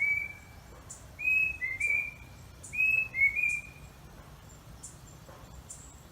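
A bird's whistled call: short clear notes in pairs, each note rising slightly and then holding, repeated three times about a second and a half apart before it stops about four seconds in. Faint, short, high ticks come and go alongside.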